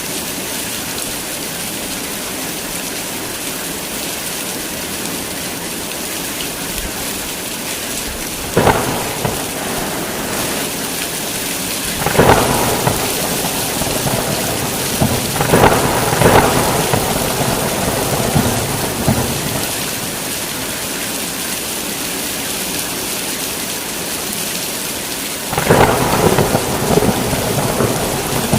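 Heavy rain falling steadily, with thunder breaking in several times: a sharp crack about a third of the way in, a run of claps and rumbles in the middle, and a longer peal near the end.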